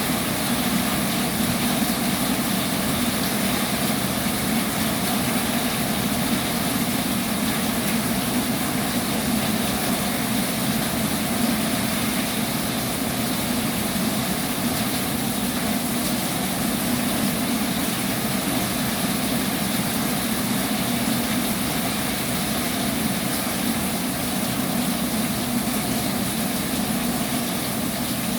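Heavy rain pouring steadily: a dense, even hiss with a stronger low rushing band beneath it.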